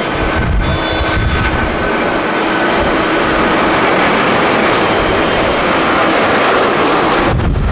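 Jet airliner engines, loud and steady: a broad rush with a few faint steady whining tones in it. Gusts of wind buffet the microphone.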